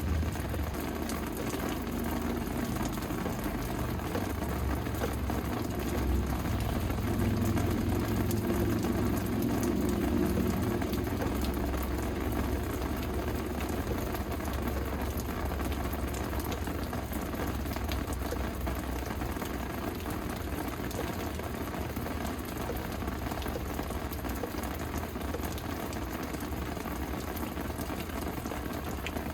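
Steady rain falling, an even hiss of drops. A low rumble sits under it, swelling about six seconds in and easing off after about ten seconds.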